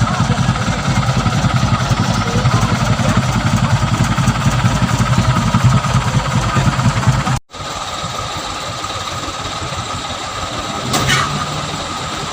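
Truck engine running with a fast, heavy low throb; about seven seconds in it cuts off abruptly and a quieter, steadier engine sound follows, with a brief louder sound near the end.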